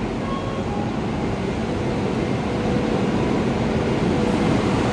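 High-speed train pulling into an underground station platform: a steady rumbling hiss of the passing train, with a faint steady tone, growing a little louder about halfway through.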